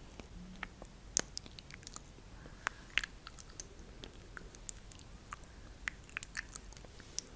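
Close-miked ASMR mouth sounds: soft, irregular wet clicks and smacks, several a second.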